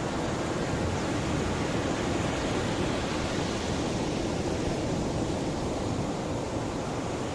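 Sea waves washing on the shore: a steady, even wash of surf, strongest in the low range, with no single crash standing out.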